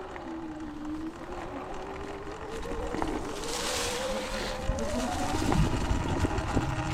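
Electric motor of a Surron Light Bee X dirt bike whining, its pitch sinking and rising again as the rider eases off and speeds up on the trail. A brief hiss comes about halfway, and low rumble from the ground and wind grows louder near the end.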